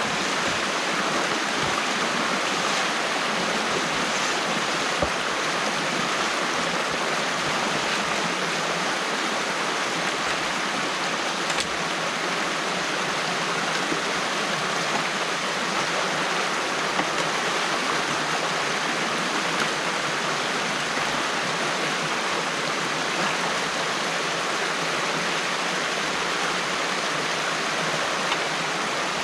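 Stream water rushing steadily through a breach in a beaver dam, with a couple of faint knocks.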